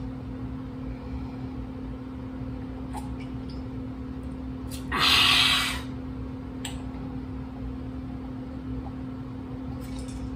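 Steady low hum in a small room, with one loud breathy slurp from a glass about five seconds in, lasting under a second.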